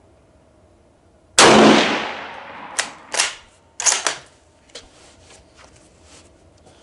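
A single shot from a Yugoslavian M48 bolt-action Mauser rifle in 8mm Mauser, with a long decaying echo, followed by a run of sharp metallic clicks and clacks as the bolt is worked to eject the case and chamber the next round.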